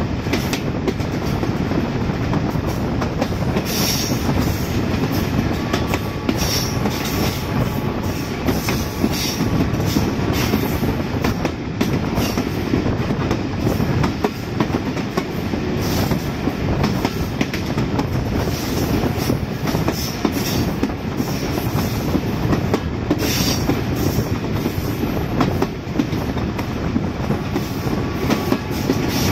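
Passenger train running over the rails on a curve, heard close to the wheels from a coach window: a steady heavy rumble full of quick rattling clicks from the wheels and rail joints. A faint thin wheel squeal comes and goes on the curve.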